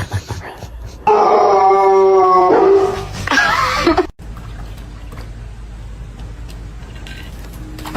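A dog howling: one long held howl begins about a second in, followed by a wavering, rising-and-falling howl that stops about four seconds in.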